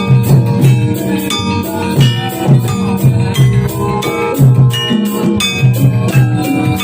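Live jathilan music from a Javanese gamelan-style ensemble: drums and struck metal instruments with a jingling rattle, keeping a quick, steady beat.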